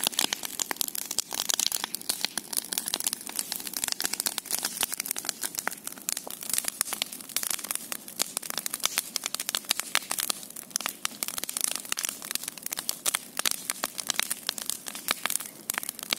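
Large bonfire burning, crackling and popping steadily with dense sharp snaps.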